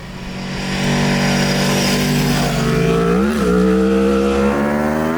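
Aprilia Tuono V4 Factory 1100's V4 engine running under way, steady at first, then a quick dip and rise in pitch about three seconds in, after which the pitch climbs slowly as the bike accelerates.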